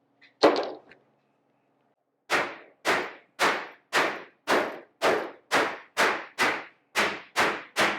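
A sharp metal strike, then a steady run of hammer blows on sheet steel, about two a second, each ringing briefly.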